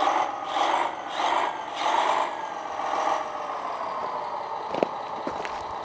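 Electric motor and gearing of an RC scale Hayes HD truck whining under load, surging rhythmically about every 0.7 s for the first couple of seconds, then running steadier. A few sharp clicks come near the end.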